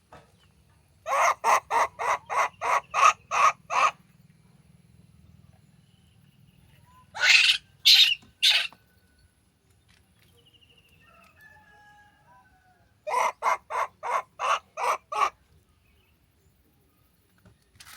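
An animal calling in runs of harsh, evenly spaced calls, about four a second: a run of about a dozen, then three louder calls, then another run of about nine.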